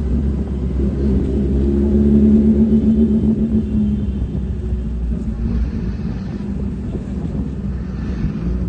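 A motor vehicle engine running with a steady low rumble, loudest about two to four seconds in and then fading back.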